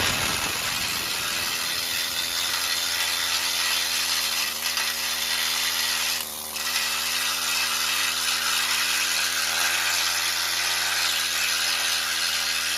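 Pneumatic needle gun (needle scaler) running steadily, its needles hammering rust scale off a steel truck frame, with a brief dip about six seconds in.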